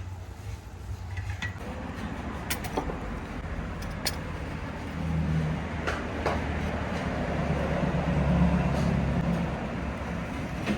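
Road traffic: a motor vehicle's engine running steadily, growing louder between about five and nine seconds in as it passes, with a few sharp clicks over it.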